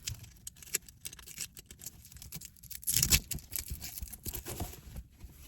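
Hands handling small objects: scattered light taps and clicks, with one louder brief rustle about three seconds in.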